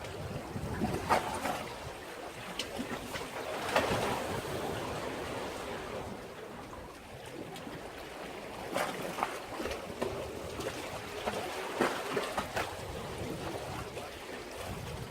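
Sea waves washing against a breakwater, surging unevenly with sharper splashes every few seconds.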